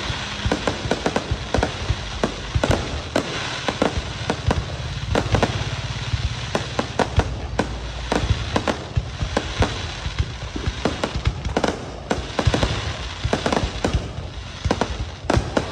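Fireworks display: a dense, irregular run of bangs, several a second, over continuous crackling.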